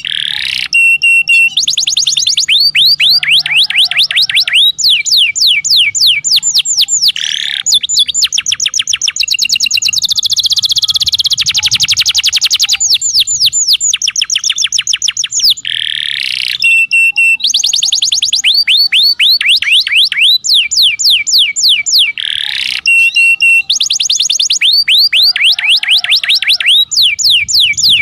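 Domestic canary song: long, loud strings of rapid falling notes and rolling trills, several notes a second, with the same phrases coming round again and again, as in a looped tutor (masteran) recording used to get lazy canaries singing.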